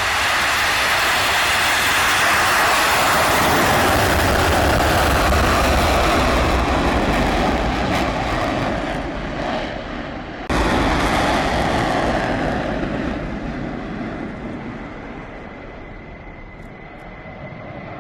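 Fighter jet engines at high power during takeoff: a loud, steady rushing jet noise. It cuts abruptly about ten seconds in to a second jet pass, which starts loud and fades gradually.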